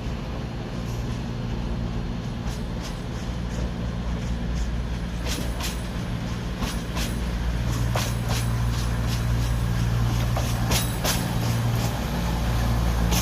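Train at a station: a steady low rumble that grows a little louder after about eight seconds, with a run of sharp clicks and clanks in the second half.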